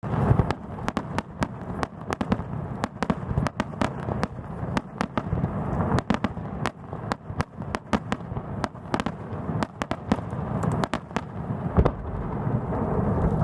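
Aerial fireworks bursting in quick succession: many sharp cracks, several a second, over a steady low rumble of booms, with one heavier boom near the end.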